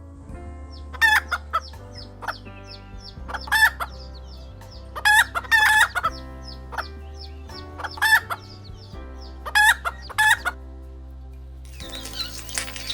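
Chickens clucking: short loud calls in little clusters every couple of seconds, over many faint high chirps and a low steady hum.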